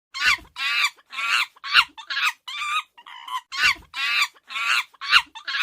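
Chimpanzee calling: a run of about ten short, high-pitched calls with brief gaps between them.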